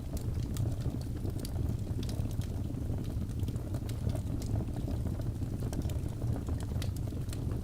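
Wood fire burning in a fireplace: a steady low rumble of flames with frequent small, sharp crackles and pops from the logs.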